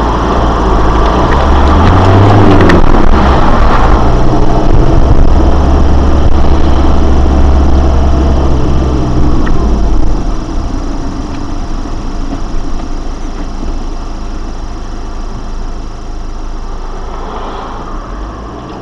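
Motor vehicle engine running with a steady low rumble that drops away about ten seconds in, leaving a quieter engine sound.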